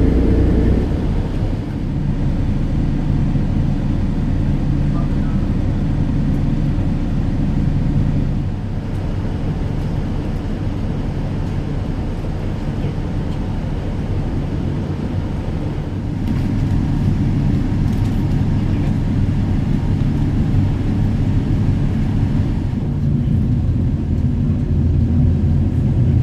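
Dubai Ferry's engines running steadily under way, a low drone that shifts slightly in level a few times.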